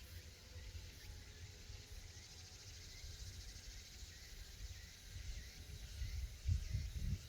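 Cicadas singing: a steady high buzzing drone with a fine pulsing texture. A low rumbling with heavy thumps grows louder near the end.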